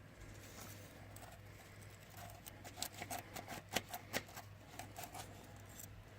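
Small stiff cleaning brush scratching and scraping dirt out of holes in a concrete wall, a fast irregular run of faint scratches through the middle.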